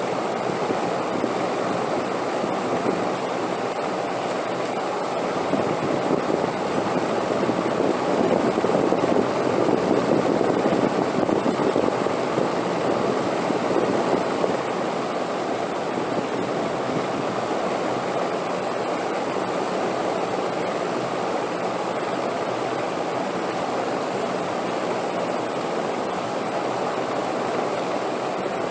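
Steady rushing wind, swelling slightly in strength for several seconds before settling back to an even level.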